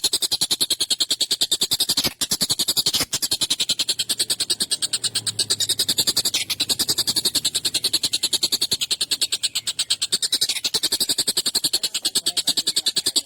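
Tengkek buto kingfisher giving a long, harsh, rattling chatter of rapid notes, about ten a second, repeated without a break.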